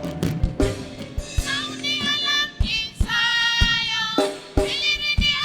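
Gospel praise music: a high voice sings long drawn-out notes over the band's drum beat.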